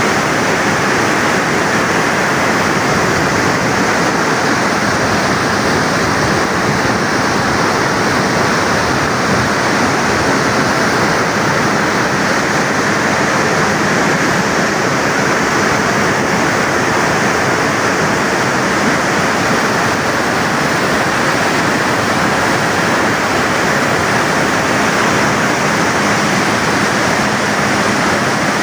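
Tarbela Dam service spillway discharging floodwater: a loud, steady rush of water that does not change.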